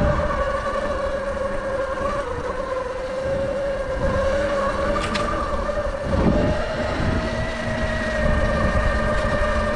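Sur Ron electric dirt bike's motor whining at a steady pitch under way, the whine edging slightly higher about six seconds in, over gusty low wind noise.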